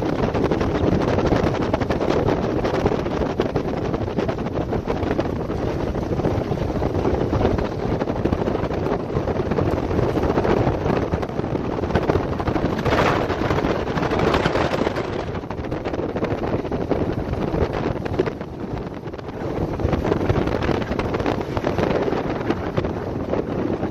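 Heavy squall wind buffeting the microphone in strong gusts, a dense rumbling rush that eases briefly about three quarters of the way through.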